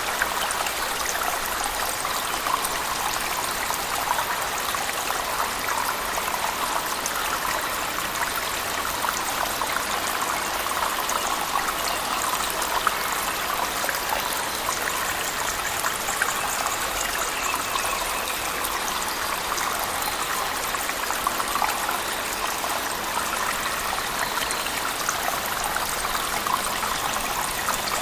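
Cave waterfall mixed with heavy rain: a steady, unbroken rush of falling water with a dense patter of drops.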